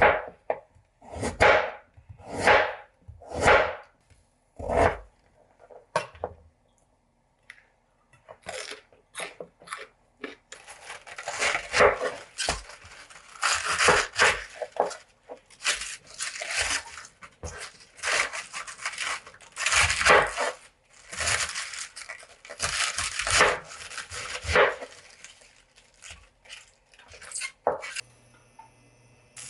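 Kitchen food-prep handling noises. Several scraping or rustling strokes come roughly a second apart, and after a short lull a busier stretch of rustling, tearing and scraping follows.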